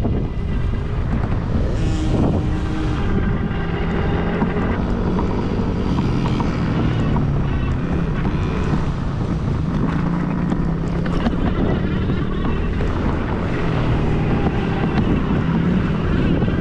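Small dirt bike engines running on the track, their pitch wavering as the riders throttle on and off, with wind buffeting the microphone.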